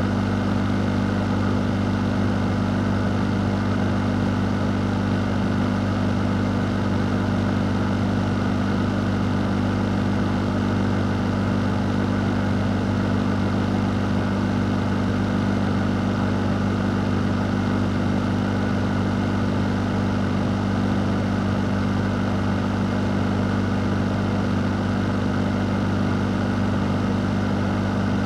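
Fan running steadily for white noise: an even rush of air over a low, constant hum, with no changes.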